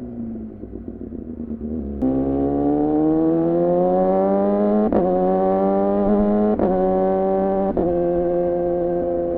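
2014 Yamaha R6 inline-four through an R9 titanium muffler and Leovince header, winding down at low revs, then the throttle opens about two seconds in and the revs climb. Three brief sharp cuts in the engine note follow, typical of clutchless quickshifter upshifts, before it settles into a steady run.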